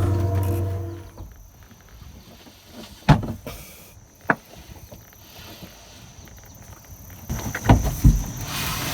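Handling noises from steering-cable work: a steady hum fades out about a second in, then two sharp knocks, and near the end rustling with a few thumps.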